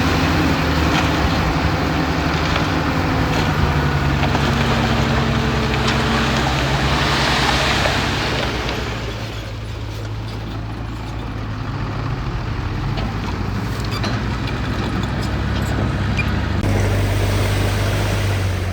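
Heavy diesel earthmoving machinery running, a dump truck or bulldozer engine with steady low engine tones. About seven seconds in a louder rushing noise swells and fades, and the sound changes abruptly near the end.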